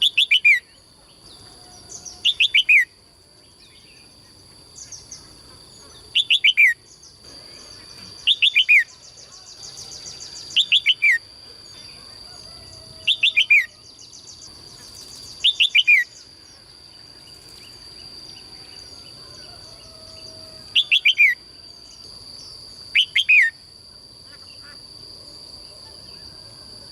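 A songbird calling in short, loud phrases of three or four quick downward-sweeping notes, repeated about every two seconds with one longer pause partway through, over a steady high-pitched tone.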